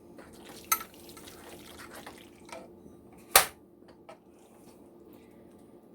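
A few sharp knocks and clinks of a serving utensil against cookware as food is dished into small pans, the loudest about three and a half seconds in.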